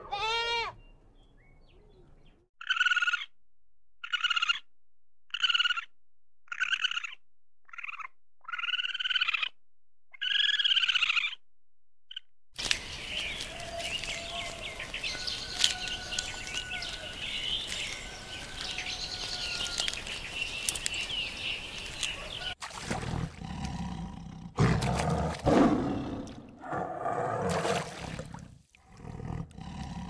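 A goat bleat ends, then about seven short, high calls follow one another from about two to twelve seconds in. Birds chirp over a steady outdoor background until a tiger starts growling and roaring loudly about twenty-three seconds in.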